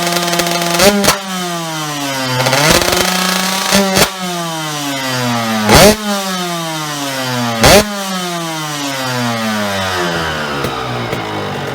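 Suzuki RM 125 two-stroke motocross engine running through an aftermarket exhaust. Its pitch holds steady, then falls away in long downward slides, with several short loud cracks along the way.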